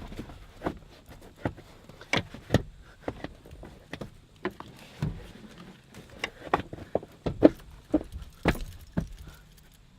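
Car seat being worked out and moved by hand: a string of irregular clunks, knocks and clicks from the seat's metal frame and rails, a few of them sharp and loud.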